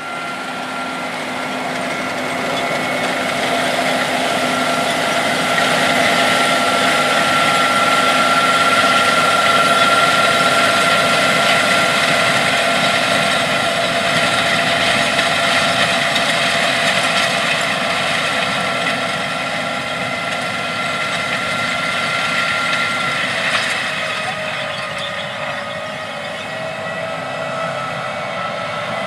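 Case IH 380 CVT Magnum tractor pulling a planter through the field, its engine running steadily under load with a high, steady whine over it. It grows louder toward the middle and eases off in the last third.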